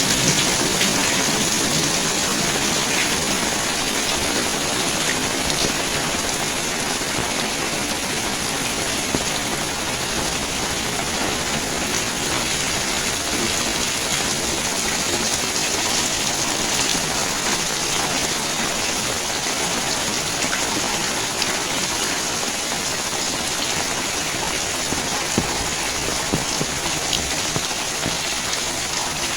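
Steady rain falling, with scattered sharp ticks of nearby drops striking surfaces.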